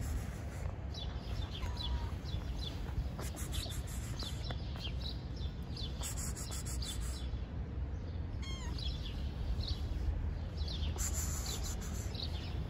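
Small birds chirping repeatedly, many short high chirps one after another, over a steady low rumble of outdoor background noise.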